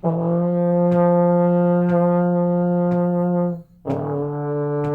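Trombone playing a steady F held for about three and a half seconds, then, after a short breath, a lower D in fourth position held on: the two-note F-to-D exercise played slowly.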